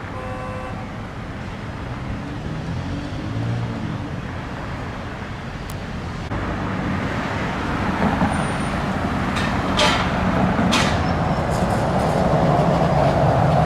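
Road traffic: motor vehicles driving past on the street, a steady rumble that grows louder about halfway through as a heavier vehicle comes close.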